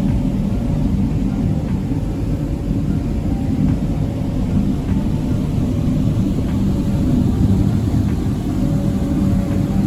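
Small passenger ferry's engines running steadily at cruising power under way: a deep, even drone with a faint steady hum above it.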